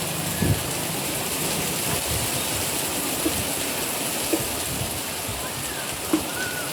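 Steady monsoon rain falling, a constant hiss of rain with a few louder single drops or splashes landing now and then.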